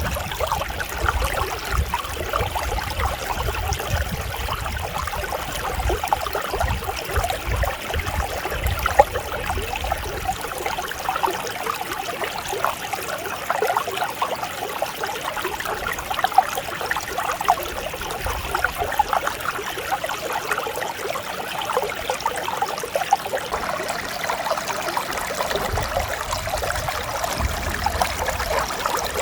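Clear mountain stream babbling steadily over rocks, with a low rumble that comes and goes underneath.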